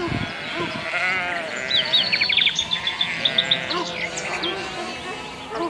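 Sheep bleating, several calls overlapping, with a run of quick high chirps in the middle.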